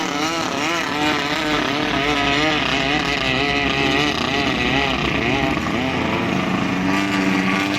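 Racing long-tail boat's engine running hard, its pitch wavering up and down about three times a second, then holding a steadier pitch near the end.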